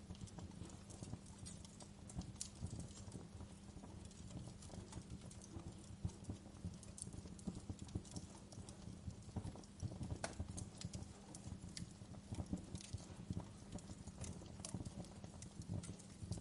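Wood fire crackling, with frequent irregular pops and snaps over a low steady rumble.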